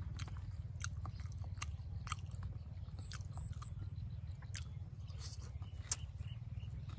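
Close-up mouth sounds of a man chewing a mouthful of balut (duck egg) and raw leafy greens. Irregular small wet clicks come through, about two a second, over a steady low rumble.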